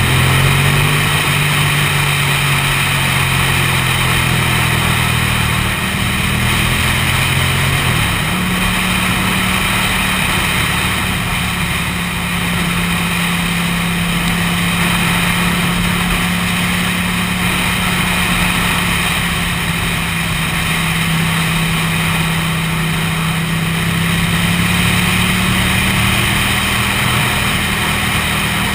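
Motorcycle engine running under way with a steady rush of wind noise; its pitch shifts over the first several seconds, then holds steady at a constant speed, edging up slightly near the end.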